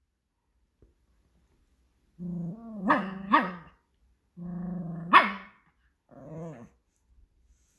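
Pomeranian grumbling and barking in a talking-like way: a drawn-out low growl that rises into two quick sharp barks, another growl ending in a bark, then a shorter, softer grumble. It is demanding food.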